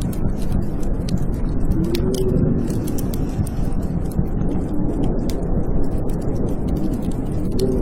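Blizzard wind howling in a steady low rush, with a faint whistling note that rises and falls, and a wood fire crackling in scattered sharp pops over it.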